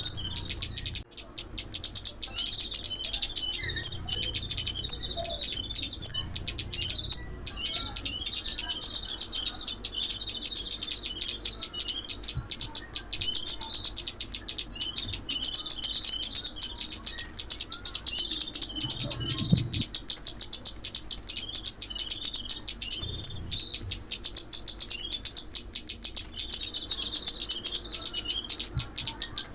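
Sunbird song: rapid, high-pitched twittering chirps repeated almost without pause, with brief breaks about a second in and again near seven seconds, over a thin steady high whine.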